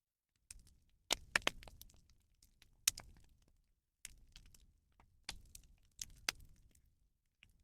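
Bonfire of burning rubbish crackling, with sharp snaps and pops coming at irregular intervals, several close together about a second in.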